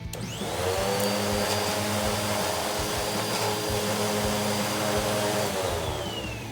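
Vacuum cleaner switched on: its motor whine rises to full speed within about a second and runs steadily. Near the end the whine starts to fall in pitch as the motor winds down.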